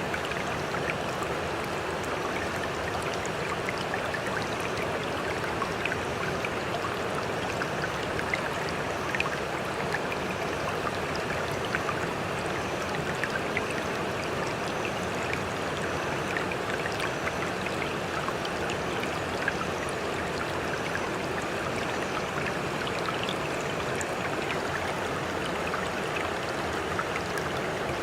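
Sea water rushing steadily, with many small splashes and droplet ticks all through it.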